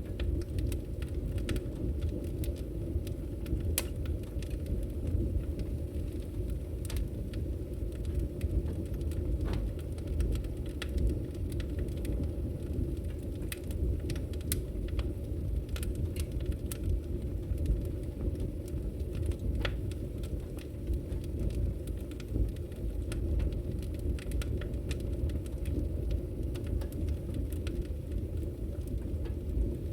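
Wood fire burning in a fireplace: a steady low rumble of the flames with frequent, irregular sharp crackles and pops of the burning wood.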